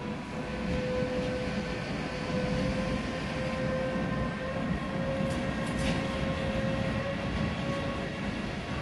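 Electric locomotive hauling a freight train of tank wagons past: a steady electric whine that rises slightly in pitch over the rumble of the wheels, with a few sharp clicks about five to six seconds in.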